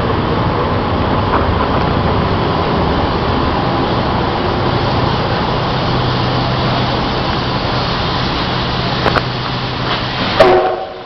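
A train running close by: a loud, steady rumble with a low hum, which ends abruptly near the end just after a sharp click.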